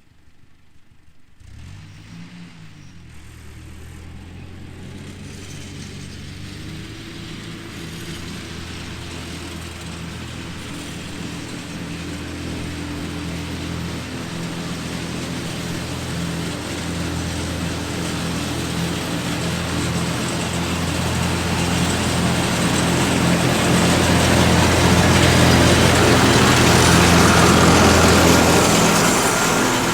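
Ford Jubilee tractor's four-cylinder engine running steadily while driving a 7 ft finishing mower off the PTO, with the whir of the mower. It starts faint about a second and a half in, grows gradually louder as it comes closer, is loudest near the end, then falls away just before the end.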